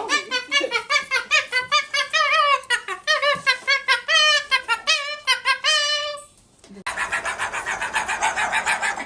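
Parrot giving a fast run of high, laugh-like calls that swoop up and down in pitch, stopping about six seconds in. After a short pause comes a denser, rapidly pulsing buzzy sound.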